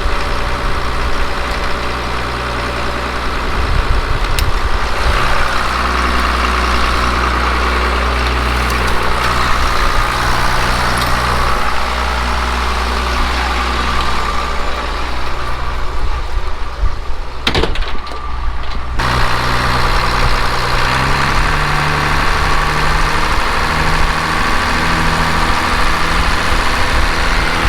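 An engine running steadily. About two-thirds of the way through comes a sharp knock, and after it the engine note changes and steps up and down in pitch.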